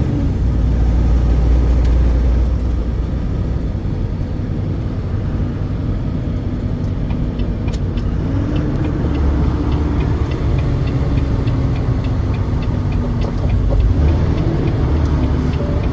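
Truck running on the road: a steady low rumble of engine and road noise with a faint engine drone.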